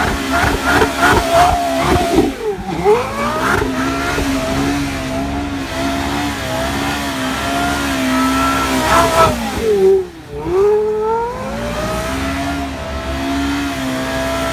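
Porsche Carrera GT's V10 engine revved in quick blips, then held at steady high revs, its pitch dropping sharply and climbing back twice.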